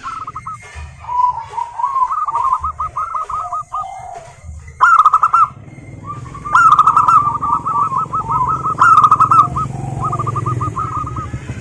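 Zebra doves (perkutut) cooing: runs of short staccato notes repeated rapidly, with several birds overlapping and the loudest runs about five, six and a half, and nine seconds in. A low rumble sits beneath in the second half.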